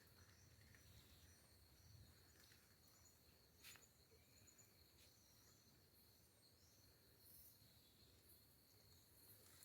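Near silence with a faint, steady high-pitched insect drone and faint chirps above it, broken by a couple of soft clicks.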